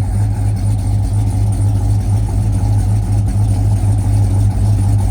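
Chevrolet 5.3L V8 with a TSP Stage 2 low-lift cam, long-tube headers and a catless Y-pipe, idling steadily through the stock muffler and resonator, with a deep, even exhaust hum.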